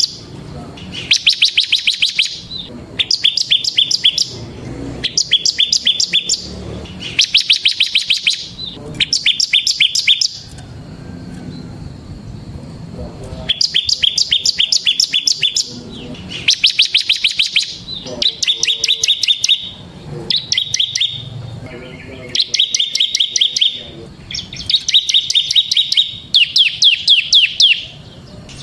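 A bar-winged prinia (ciblek) singing in its fast 'ngebren' style: a series of rapid, drilling trills of repeated high notes, each phrase lasting one to two seconds. The bird pauses for about three seconds partway through and then resumes.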